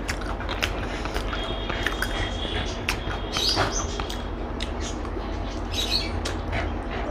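Eating sounds: chewing and wet mouth smacks with small clicks, over a low steady hum. A thin high steady tone starts about a second in and lasts about three seconds.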